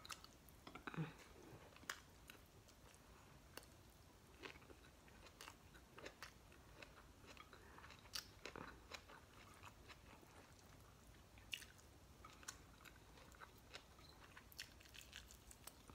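Faint close chewing and crunching of crispy fried galunggong (round scad), with scattered small crackles and mouth clicks throughout, a little stronger about a second in.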